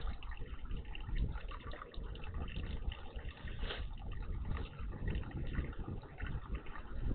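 Water splashing and pattering in a garden bird bath in short, irregular bits, over a steady low rumble.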